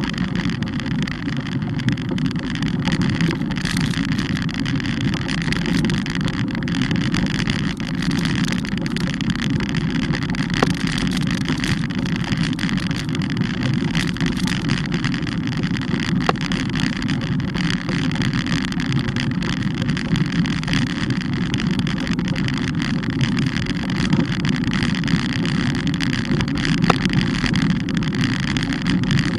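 Steady rumble of wind and road noise on a moving bike's mounted microphone, with three brief sharp clicks spread through it.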